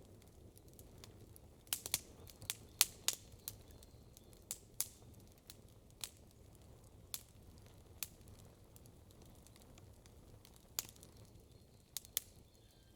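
Wood campfire crackling: irregular sharp pops, a quick cluster of them about two to three seconds in and single ones every second or so after, over a faint steady low background noise.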